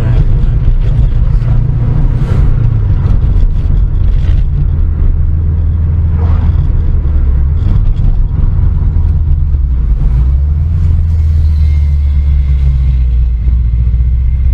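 Car engine running with a heavy, steady low rumble, its note dipping and settling a few times as the car changes speed.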